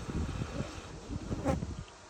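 Indesit My Time EWD61052 washing machine running with a buzzing hum, and a sharp click about one and a half seconds in.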